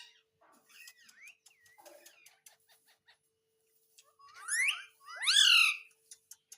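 Pet parrot giving soft chirps and clicks, then two loud, rising squawks in quick succession about four to five seconds in.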